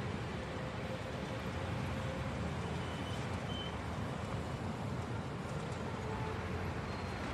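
Steady wind and riding noise on the microphone of a camera carried along on a moving bicycle, a low, even rumble without breaks.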